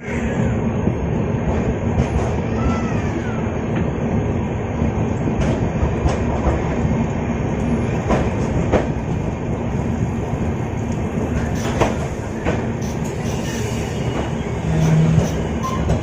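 Passenger train running on the line: a steady rumble of wheels on track with scattered clacks and knocks.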